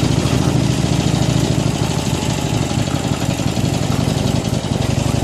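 Harley-Davidson Iron 883's air-cooled V-twin engine running steadily, its firing pulses close and loud.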